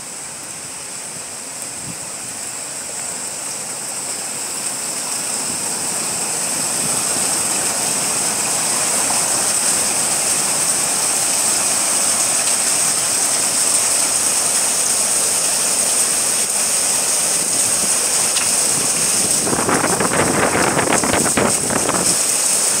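Small waterfall rushing steadily, growing louder over the first several seconds and then holding level, with a stretch of rougher, louder noise a few seconds before the end.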